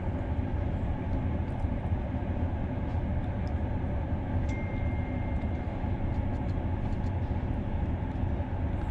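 Steady low rumble inside a Thai sleeper train carriage, with a brief high steady tone about halfway through.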